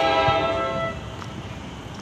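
Train horn sounding a steady multi-tone chord that cuts off about a second in, followed by the steady rumble of the approaching train.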